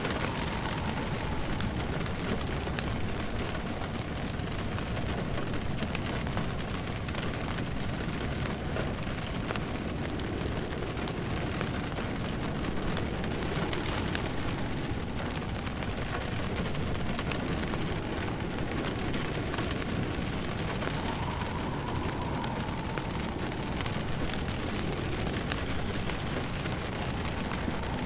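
Steady rain falling alongside a crackling log fire, mixed into one even ambience with no breaks. A faint wavering whistle of wind rises and falls about two-thirds of the way in.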